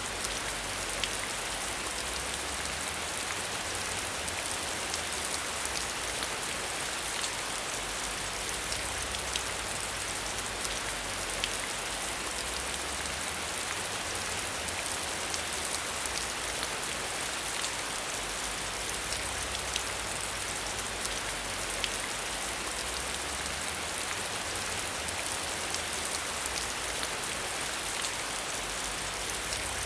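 Steady rain falling, with scattered sharper ticks of individual drops.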